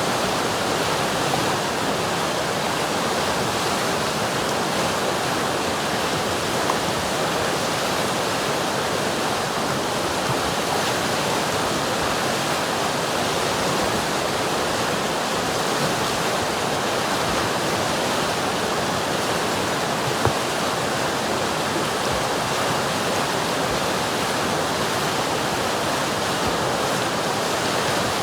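River water rushing and splashing over rocks, a steady, even noise with no change throughout.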